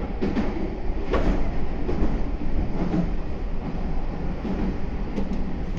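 Running noise inside a Meitetsu 4000 series electric train car: a steady low rumble with a few sharp knocks from the wheels and car body, the loudest about a second in.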